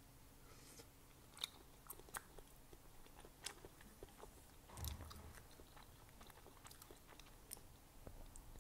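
Faint, close-up chewing of a bite of sliced vegan hot dog, with small wet mouth clicks scattered through it and a slightly louder soft knock about five seconds in.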